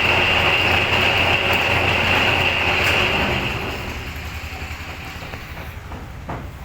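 Metal lathe running with a steady high-pitched whine from the tool cutting the steel. The whine fades about three and a half seconds in, leaving the machine running quieter, and there is a single knock near the end.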